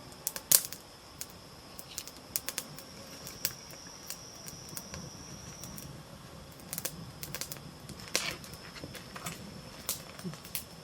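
Campfire crackling, with irregular sharp pops and snaps. A steady high-pitched insect trill runs underneath.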